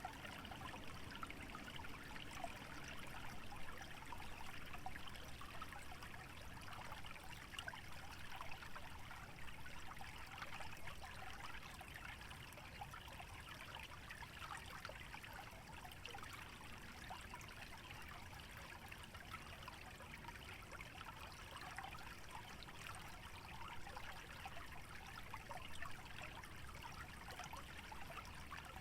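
Small stream trickling and babbling steadily over a low rumble.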